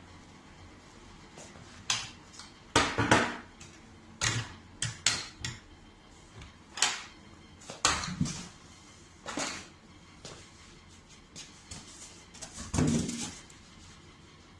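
Irregular knocks, clunks and rustles of hard objects being handled and set down, about a dozen scattered impacts, the loudest about three seconds in and near the end.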